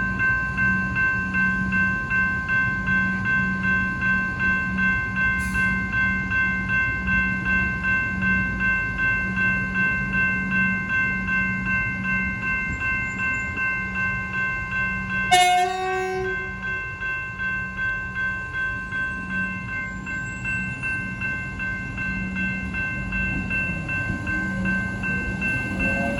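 Level crossing warning bell ringing steadily, about two strikes a second. A short train horn blast sounds about halfway through.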